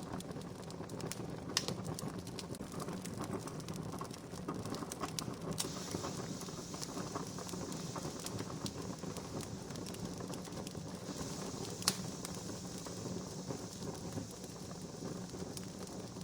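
Wood fire crackling steadily, with scattered pops and two louder snaps, one about a second and a half in and one near twelve seconds.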